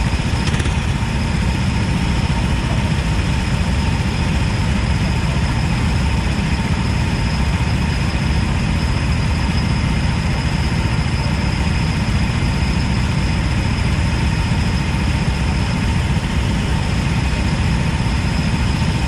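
Go-kart engine running at a steady idle: a dense low rumble with a thin high whine over it, holding the same pitch without revving.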